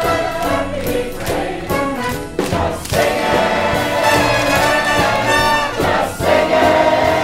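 A chorus of voices singing a stage musical number with instrumental accompaniment, holding long notes from about three seconds in.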